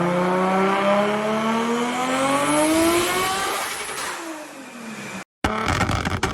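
Turbocharged Nissan Skyline engine accelerating hard, its pitch climbing steadily for about three and a half seconds before fading away as the car moves off. After a brief cut about five seconds in comes a fast run of sharp pops and crackles.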